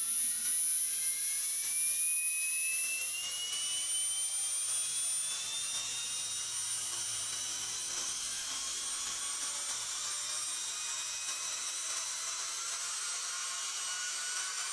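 Baituan 21 V cordless impact driver running with no load, its motor whine rising smoothly in pitch as the trigger is squeezed further, then holding steady at top speed from about halfway in. The even climb without jumps shows a truly stepless variable-speed trigger.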